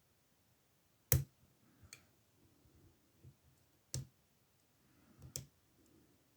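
Lock picks clicking in the older Ruko oval cylinder of a brass-and-steel ASSA padlock: a handful of scattered sharp clicks, the loudest about a second in.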